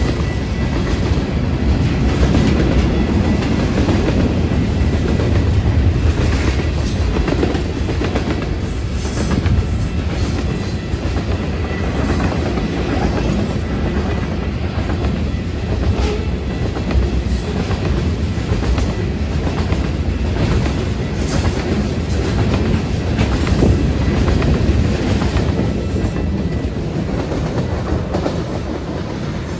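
A train rolling past at close range: a steady rumble of wheels on rail with repeated clicks over the rail joints. It eases off slightly near the end.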